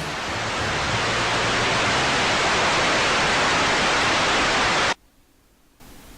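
Loud steady static-like hiss of noise that swells slightly, then cuts off abruptly about five seconds in, leaving only a faint hiss.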